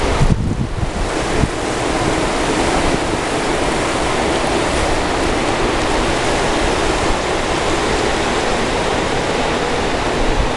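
Caspian Sea waves washing steadily against the rocky shore, with wind rumbling on the microphone about a second in.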